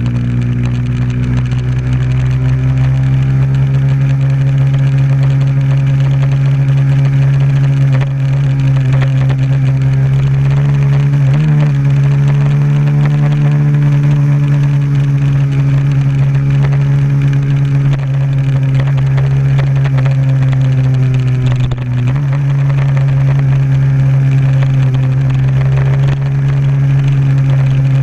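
Bajaj Pulsar motorcycle's single-cylinder engine running steadily as the bike rides along the road, its drone briefly dipping about 11 seconds in and again about 22 seconds in.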